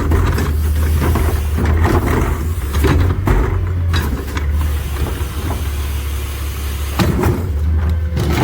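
Freightliner garbage truck with a McNeilus rear-loader body running steadily with a low engine hum, with scattered knocks and clatter and a sharp knock about seven seconds in.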